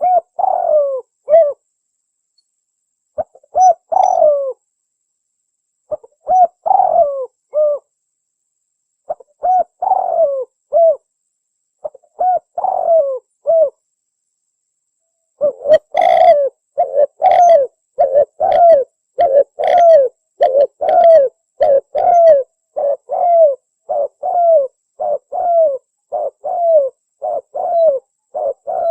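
Spotted doves (tekukur) cooing: short groups of a few coos every two to three seconds, then from about halfway a dense, nearly unbroken run of coos.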